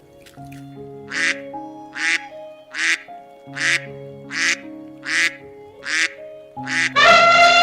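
A duck quacking eight times, evenly spaced a little under once a second, over light background music. About seven seconds in, a loud call starts and falls in pitch.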